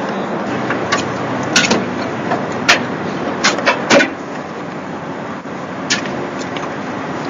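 Steady noise of car engines idling, broken by about seven sharp clicks and knocks, the loudest about four seconds in, as hands and tools work in an open engine bay.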